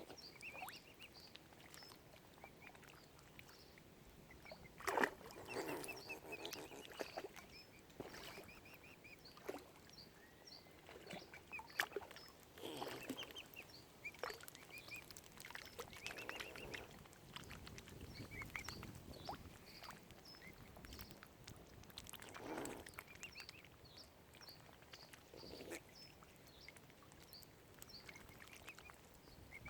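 Mute swan cygnets peeping in many short, high notes, with louder, lower waterfowl calls every few seconds.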